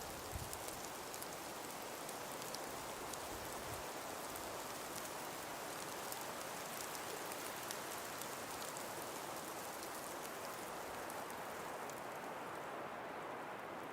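Steady breeze through a frost- and ice-covered forest: an even rushing hiss with light, scattered ticks throughout, the high ticking thinning out near the end.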